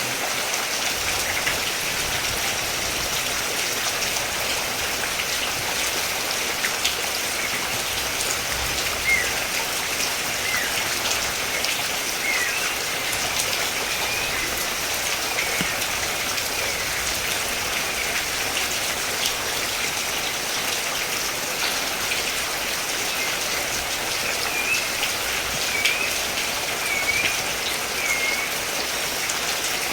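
Steady rain falling and pattering on surfaces, an even hiss. Short high chirps, a bird's by the sound of them, come in now and then from about a third of the way in.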